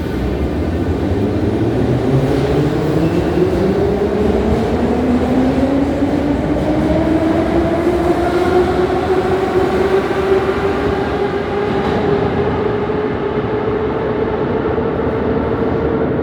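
Moscow metro train running, its traction motor whine climbing steadily in pitch for about ten seconds and then holding level over the rumble of the wheels: the train picking up speed.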